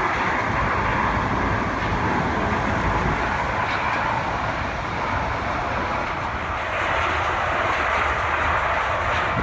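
Heavy earth-moving equipment working on the sand: a steady rumble of diesel machinery with faint clanking, running on without a break.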